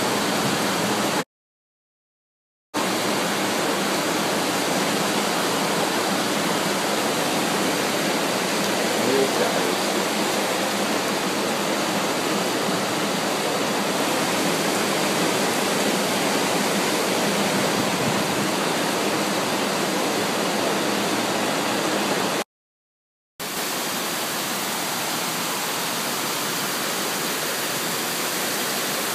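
Floodwater rushing in a steady, loud, unbroken rush of water. It cuts out to silence twice: briefly just after a second in and again near the end, and it is a little quieter after the second break.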